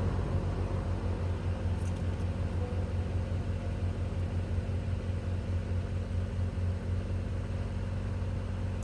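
2022 Honda Civic Sport's 2.0-litre four-cylinder engine idling steadily, with an even low hum. It is running normally after a no-start caused by a failed battery was fixed with a new one. A couple of faint clicks come about two seconds in.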